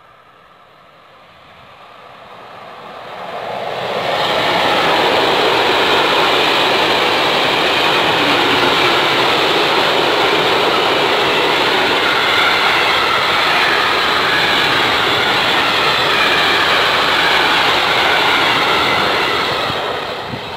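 Freight train of tank wagons and covered goods wagons passing close by on an electrified line: wheels rolling on the rails in a steady loud rumble. It builds over the first few seconds as the train arrives and eases off near the end as the last wagons go by.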